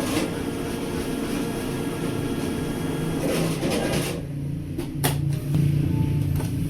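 Street traffic: a motor vehicle's engine running with a steady hum, over a continuous wash of street noise, growing louder after about five seconds.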